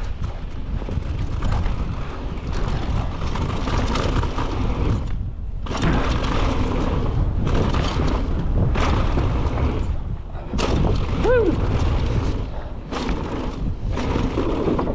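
Wind buffeting the microphone and the rattle of a mountain bike over rough trail while riding downhill, with a brief falling squeal about eleven seconds in.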